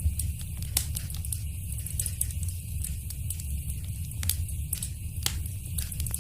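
Wood fire in a fireplace crackling, with many small snaps and a few louder pops over a steady low rumble.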